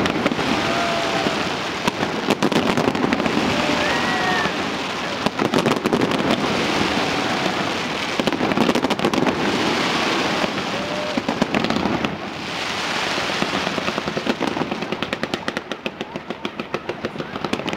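A fireworks display with many fireworks going off at once in a continuous mass of bangs and crackling. A quick run of sharp crackles comes near the end.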